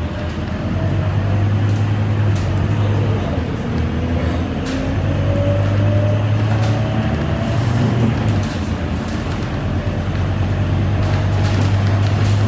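Scania K230UB Euro 4 city bus engine and drivetrain running under way: a steady low hum, with a whine that climbs slowly in pitch as the bus picks up speed, and scattered light clicks and rattles.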